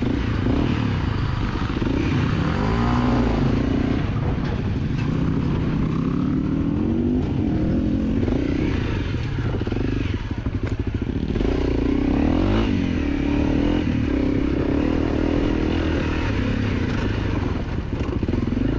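250 cc dirt bike engine running under load, its pitch rising and falling over and over as the rider rolls the throttle on and off, with scattered clatter and knocks from the bike over rough ground.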